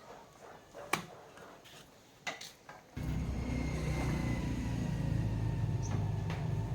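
A couple of sharp clicks, then a steady low electrical hum with a faint high tone starts suddenly about three seconds in, as of a device switched on.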